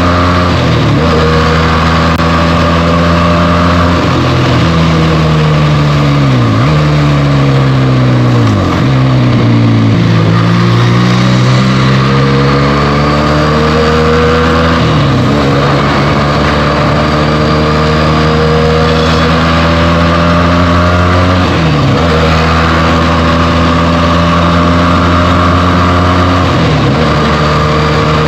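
Benelli TNT 300's 300 cc parallel-twin engine through its stock exhaust, ridden along: the engine note holds steady and dips sharply and recovers at each of several gear changes, and around the middle it slows down and then picks up speed again.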